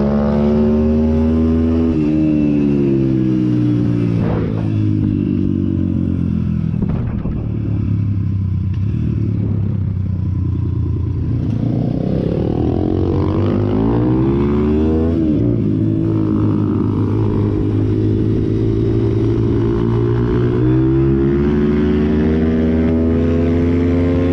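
Pit bike engine running, its pitch holding steady at times and rising and falling as the throttle is opened and eased off.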